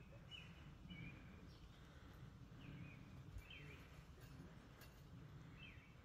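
Near silence with faint bird chirps: a short, quick note repeated about every second, over a low steady rumble.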